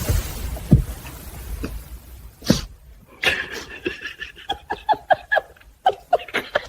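Dog giving a rapid run of short, high-pitched yelps over the second half, after a stretch of low rumbling noise with a few thuds.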